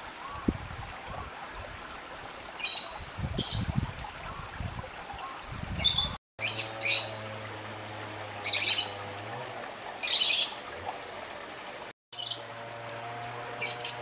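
Wild birds calling in short, high chirps and squawks, several at a time and scattered throughout, over a steady background hiss. After a cut about six seconds in, a low steady hum runs beneath them.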